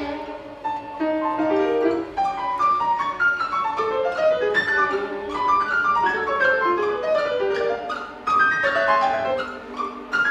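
Piano with a string orchestra playing classical music, with quick runs of short notes that climb and fall.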